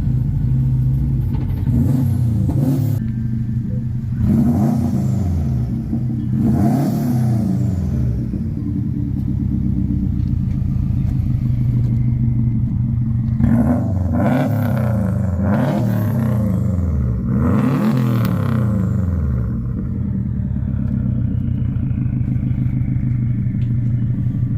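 Subaru drift car's 2-litre WRX turbocharged flat-four engine driven under load, revving up and falling back about six times over a steady engine drone.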